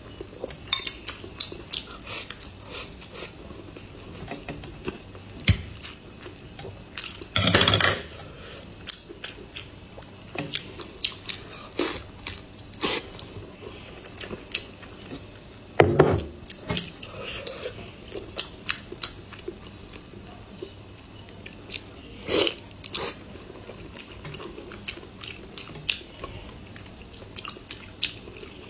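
Close-up eating sounds of someone biting and chewing braised meat off the bone: wet mouth noises with frequent small clicks, and two longer, louder bursts, one about seven seconds in and one about sixteen seconds in.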